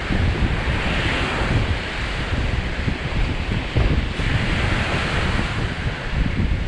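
Lake Michigan waves breaking and washing up the beach, with two surges of wash, about a second in and again about four seconds in. Wind buffets the microphone with a steady low rumble underneath.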